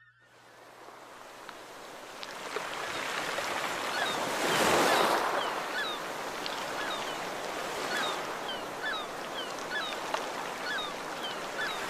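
Surf washing, fading in over the first few seconds and swelling once about five seconds in, with a small bird calling in short, repeated chirps.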